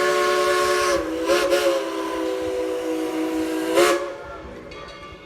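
Steam locomotive's chord whistle sounding several blasts: a short break about a second in, a brief toot, then a long blast that cuts off about four seconds in, leaving steam hissing.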